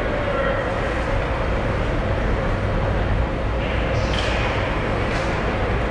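Hockey rink ambience: a steady wash of arena noise with a low rumble, broken about four and five seconds in by short hissing scrapes of skate blades on the ice.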